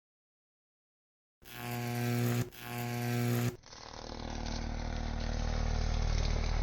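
High-voltage arc from a microwave oven transformer buzzing with a strong mains hum. After about a second and a half of silence it comes as two bursts of about a second each, then a longer run that grows louder.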